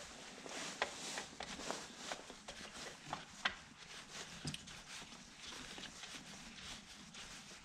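Scattered light clicks, knocks and rustling from parts being handled on a workbench, irregular and a few a second at most.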